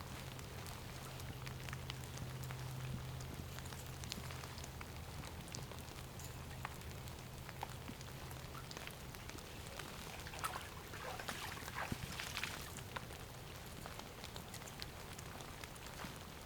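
Light rain pattering, with many scattered drops ticking, over a steady low hum that fades after about nine seconds.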